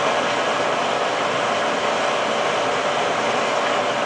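Electric pump motor of a home-built water-heating system running steadily: an even whirring hum with a faint steady whine through it.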